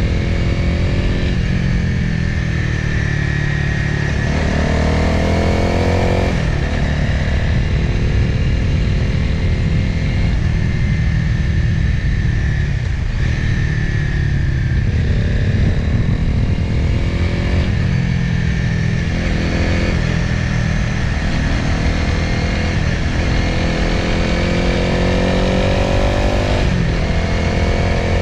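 Motorcycle engine and wind rush from an onboard camera on a winding downhill ride. The engine note rises in pitch several times as the bike accelerates out of bends, then falls away sharply each time the throttle closes or the rider shifts.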